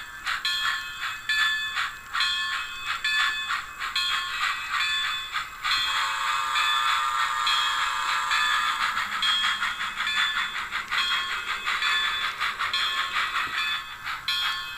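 HO scale model train running on the layout, with a quick repeating clicking rhythm. Near the middle comes a held, horn-like chord of several steady tones lasting about three seconds.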